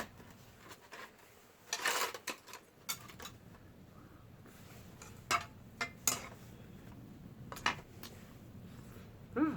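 Utensils clinking and knocking against dishes in short, scattered strokes, about seven in all, with a small cluster near the middle.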